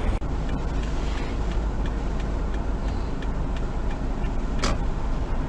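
Steady low rumble of a car driving, as picked up by a dashcam, with a single short knock about four and a half seconds in.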